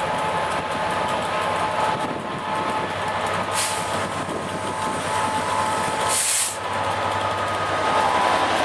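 Diesel train running at a station platform, a steady engine drone, with two short bursts of hissing about three and a half and six seconds in, typical of air-brake releases.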